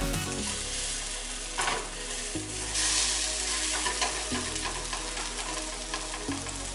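Egg-dipped rolled French toast sizzling in butter in a nonstick frying pan, with a few light clicks of plastic tongs against the pan. The sizzle swells briefly about three seconds in.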